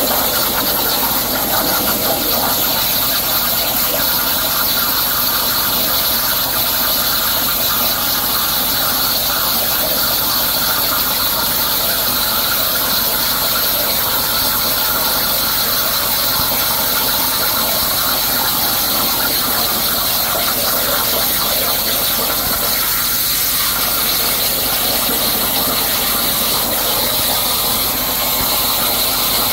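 Hypertherm Powermax 85 plasma torch cutting 3/4-inch plate on a CNC plasma table: a loud, steady hiss with high-pitched tones running through it.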